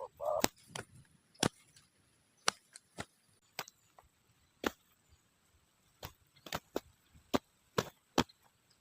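Sharp clicks and taps at irregular intervals, about fifteen, some coming in quick pairs, over a quiet background.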